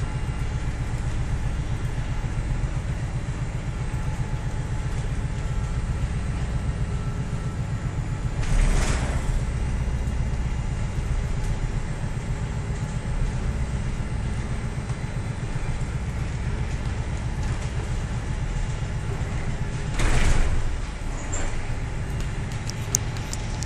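Steady low rumble of a ship's engines and machinery heard on board. Two brief louder rushes of noise come through it, about nine seconds in and again about twenty seconds in.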